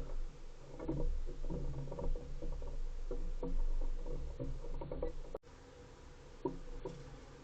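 Irregular taps and scuffing thumps close to the microphone, from an animal moving about and pecking at the camera spot. The sound drops out for an instant about five seconds in, then only a few faint taps follow.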